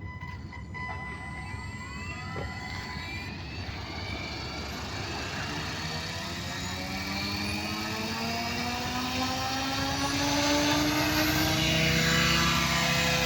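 Goblin 570 electric RC helicopter spooling up: the motor and rotor whine rises steadily in pitch and grows louder.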